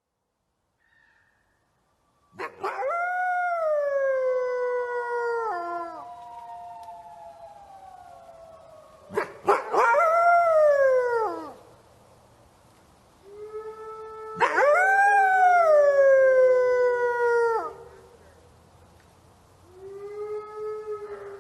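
Wolf howling: after a couple of seconds of silence come long, drawn-out howls, each rising briefly and then sliding down in pitch over a few seconds. There are four howls in all, the last one fainter near the end.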